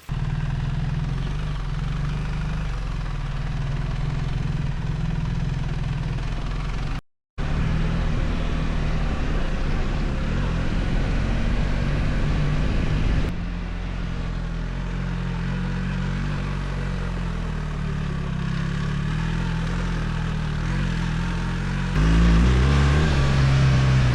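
BMW R 1300 GS Adventure's boxer-twin engine running steadily. It cuts out briefly about seven seconds in, and runs louder and rougher near the end.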